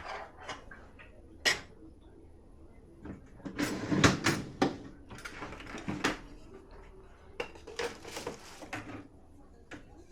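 Dishes and cutlery clinking and clattering as they are handled at a dishwasher, with rack and drawer knocks. The clatter is busiest in the middle and again briefly near the end.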